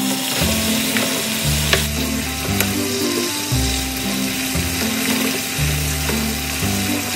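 Sweet potato stems sizzling in a nonstick frying pan in a little water and seasoning, reducing as they are stir-fried. A wooden spatula stirs and scrapes them, with a few sharp clicks against the pan.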